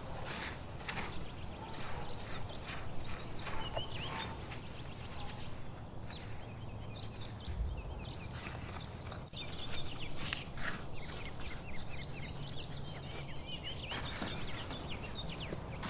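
Leaves rustling and stems snapping in irregular short bursts as garden vegetables are picked by hand, with small birds chirping in the background.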